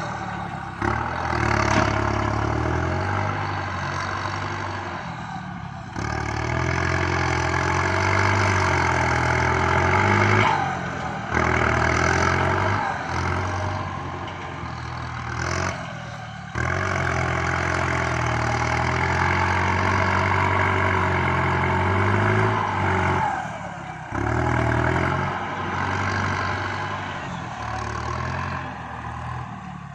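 Kubota MU5702 tractor's diesel engine running under load while pushing soil. The engine note drops briefly every five or six seconds, then picks up again.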